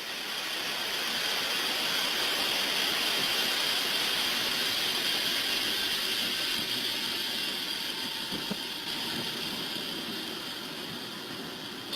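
A train going by: a steady rushing noise that swells over the first few seconds and then slowly fades.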